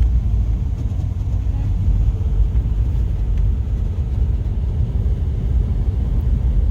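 Lifted 1998 Jeep Cherokee driving, a steady low rumble of engine and tyres.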